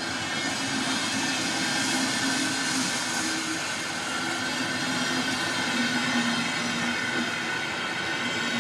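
Train running past: a steady rolling rush of noise with a held hum and a row of faint higher tones through it.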